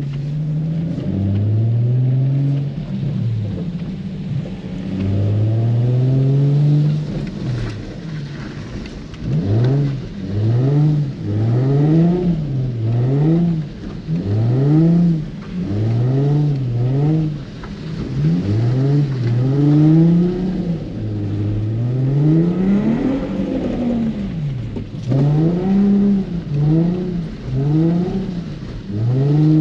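Nissan 350Z's 3.5-litre V6 revved hard and let off again and again as the car is drifted on a slick wet surface. A couple of long pulls come first, then quick rev swings about once a second.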